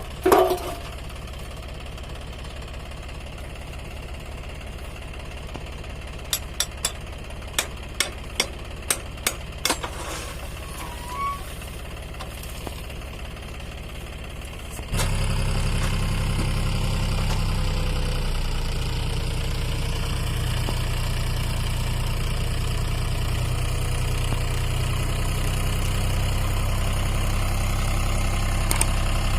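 Three-cylinder diesel engine of a John Deere 5204 tractor running steadily. A string of about ten sharp clicks comes a few seconds in. About halfway through the engine suddenly gets much louder and stays so.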